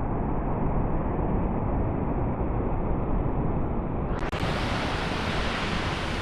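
Sea surf washing on a beach, a steady rushing noise with wind buffeting the microphone. About four seconds in the sound suddenly turns brighter and crisper.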